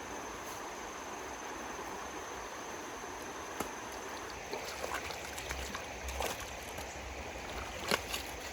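Steady rush of running water, drained from the puddle by the pump. From about halfway through come scattered short knocks or splashes, the loudest near the end.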